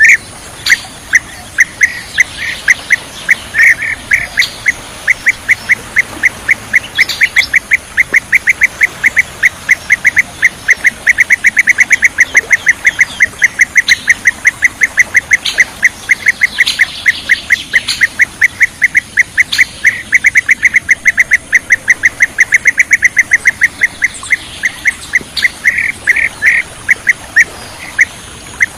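Blue-tailed bee-eater (kirik-kirik laut) calling: a loud, fast string of short, clipped notes, about five a second, kept up without a break.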